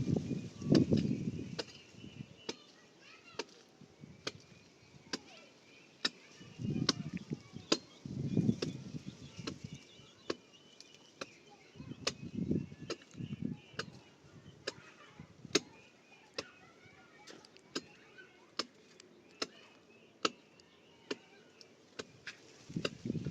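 Hand-tool work: irregular sharp clicks and knocks, about one or two a second, with a few bunches of heavier dull thumps.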